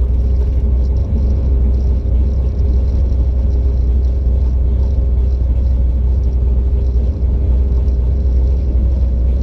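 Car engine idling with a steady, heavy low rumble.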